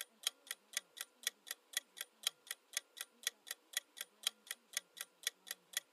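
Quiz countdown timer sound effect ticking steadily, about four sharp ticks a second.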